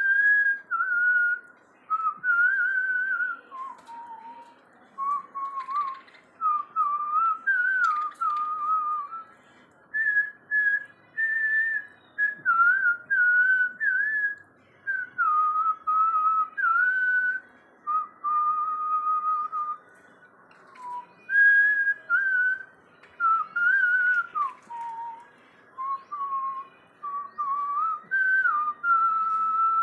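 Clear whistled melody: a string of short and held pure notes stepping up and down in pitch, in phrases with brief pauses between them.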